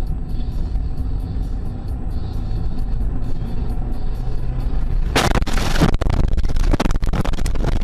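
Steady car road rumble with music in the cabin, then about five seconds in a sudden loud burst of crashing and clattering noise that goes on for a couple of seconds.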